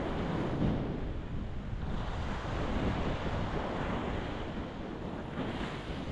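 Ocean waves breaking against a rocky shore: a continuous wash of surf that swells and eases.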